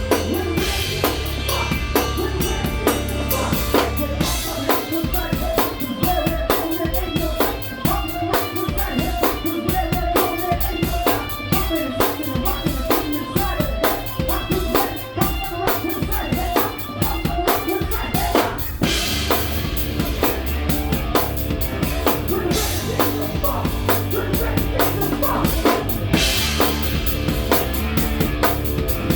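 Live rock band playing an instrumental passage: drum kit with kick and snare driving a steady beat under bass and distorted electric guitar.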